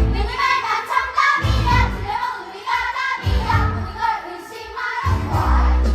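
Children singing together in a group over a backing track with a steady bass beat.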